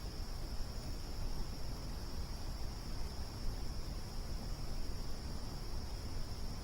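Crickets chirring in one steady, unbroken high-pitched drone over a low, rumbling background noise.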